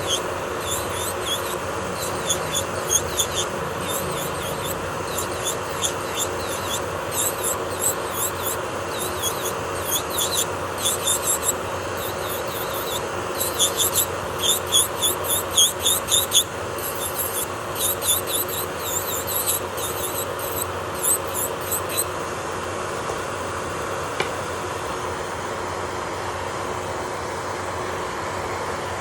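Electric nail drill (e-file) running with a steady hum while its bit works the nail, giving many short high squeaks in quick bursts that stop a little over two-thirds of the way through, leaving only the motor hum.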